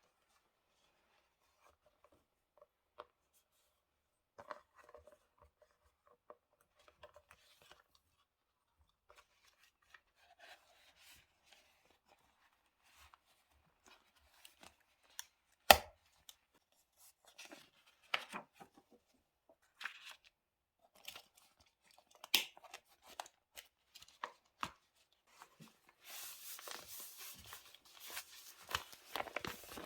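Diary-decorating paper work: sparse rustling of paper and stickers with soft taps and clicks, a single sharp knock of something set down on the desk about halfway through, then a continuous tearing, rasping sound near the end, like paper or tape being torn.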